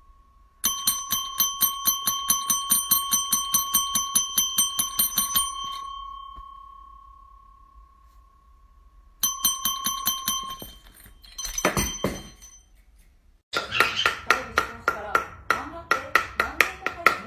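A small bell rung rapidly, about five strikes a second, in three bouts. The first bout rings on and fades out. A short second bout follows, and after a brief rustle the third bout comes in at a slightly higher pitch.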